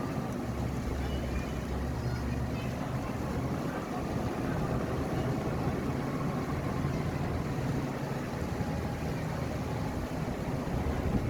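Bulldozer's diesel engine running steadily, a low drone with a deeper note for the first couple of seconds.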